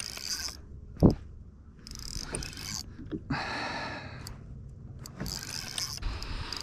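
A spinning reel being cranked in short spurts while fighting a lake trout on the line, its gears whirring with pauses in between. There is a single loud knock about a second in.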